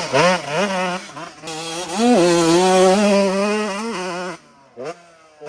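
Dirt bike engine revving hard, its pitch swooping up and down with throttle and gear changes, then holding steady. It drops away sharply about four and a half seconds in, with a short blip, before picking up again near the end.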